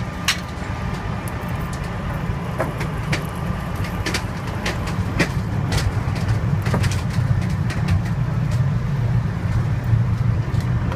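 A heavy truck engine running steadily, getting somewhat louder about halfway through, with scattered sharp metallic clicks and knocks over it.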